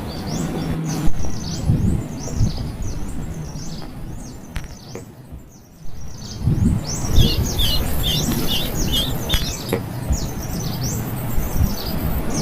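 Small birds chirping in many short, high, rapid calls, including a quick run of repeated notes partway through, over a low rumbling noise; a brief lull comes about five seconds in.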